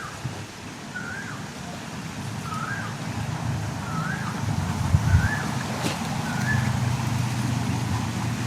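A bird repeats a short whistled note that rises and falls, about six times at an even pace of roughly one every second and a quarter. Under it, the low hum of a vehicle engine grows louder through the second half.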